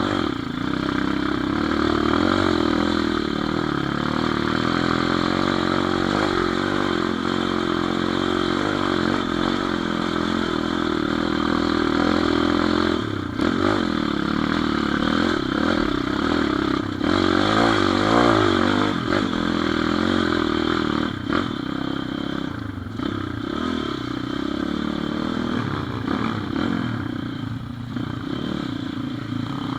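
Pit bike's small single-cylinder engine running while riding, its pitch wavering up and down with the throttle and briefly dropping off a few times.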